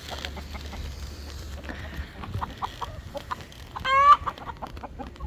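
Hens clucking in short notes, with one loud, rising squawk about four seconds in.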